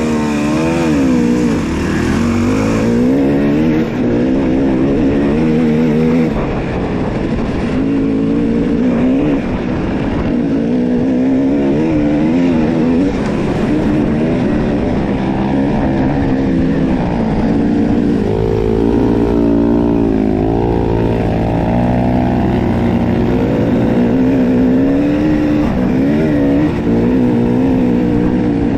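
Dirt bike engine running under way, its pitch rising and falling continuously as the throttle is worked on and off.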